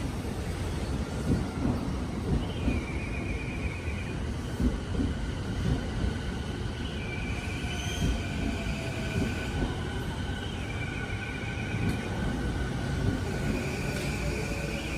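Electric train running on the rails, a continuous rumble with irregular knocks from the wheels, and a high squeal coming and going every few seconds.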